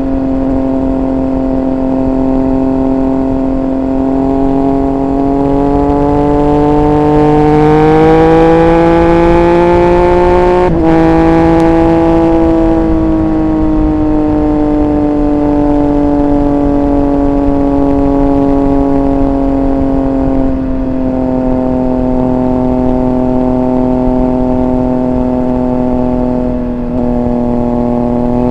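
Triumph Speed Triple 1200 RR's inline three-cylinder engine running under way. Its pitch climbs gently for about ten seconds, breaks off briefly, then eases down slowly and holds steady.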